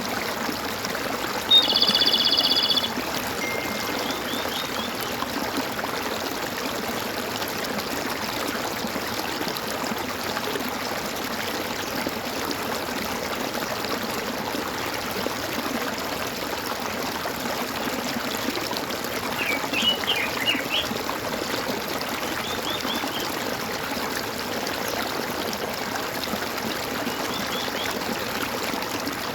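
Water gurgling and trickling steadily, with birds calling over it: one loud call lasting about a second, about one and a half seconds in, then a few short chirps about two-thirds of the way through and near the end.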